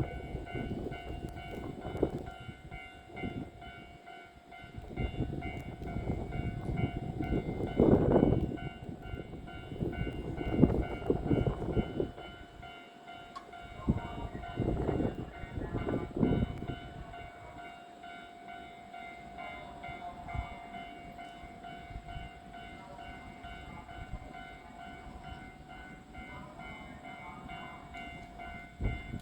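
Electric multiple-unit train at a station platform: uneven rumbling of wheels and running gear that swells and fades, loudest about eight seconds in, with steady high tones throughout.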